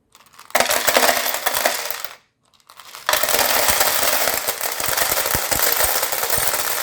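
Many loose LEGO plastic bricks clattering and rattling against each other in a dense jumble of small clicks. There are two spells: one from about half a second in to about two seconds, then, after a short pause, a longer one from about three seconds on.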